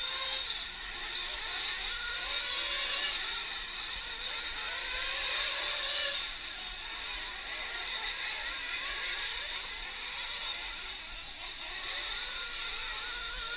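Several 1/8-scale nitro RC trucks' small glow-fuel two-stroke engines racing, with overlapping high-pitched whines rising and falling as they rev up and back off around the track.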